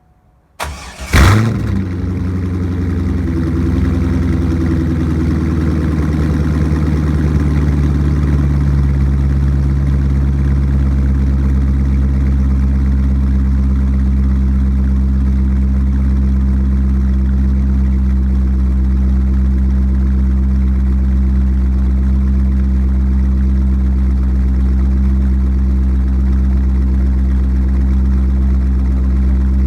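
1999 Corvette C5's LS1 V8, breathing through a Borla axle-back exhaust, starting from cold: a brief crank, then it catches with a loud flare about a second in. It then settles into a steady idle, the pitch easing down slightly over the next several seconds.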